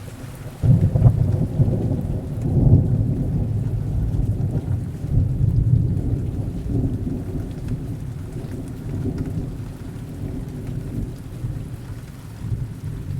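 Heavy rain with a sudden thunderclap about a second in, then a long low rumble that rolls on in swells and slowly fades under the rain.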